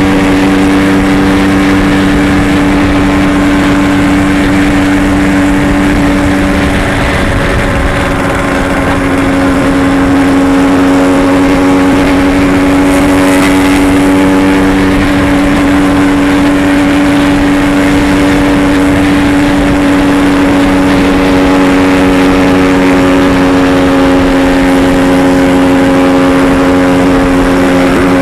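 Yamaha RX-King's 135 cc two-stroke single-cylinder engine running at a steady pace while the bike is ridden, with road and wind noise. The engine note dips and shifts briefly about seven seconds in, then holds steady again.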